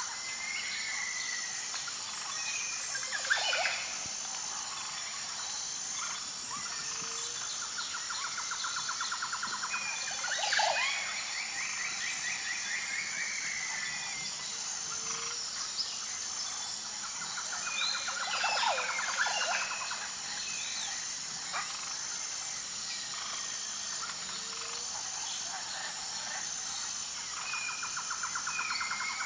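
Tropical forest chorus of wild birds calling: short sweeping calls stand out a few times. A fast pulsed trill repeats about every ten seconds, over a steady high-pitched drone.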